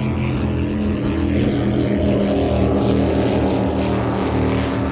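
Offshore racing powerboat engines running hard at speed, a steady low drone with engine harmonics that swells a little toward the middle and eases near the end as the boats pass.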